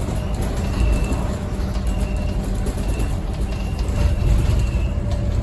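Scania N230UD double-decker bus's diesel engine running with a steady low rumble, heard on board. Short high beeps repeat about once a second over it.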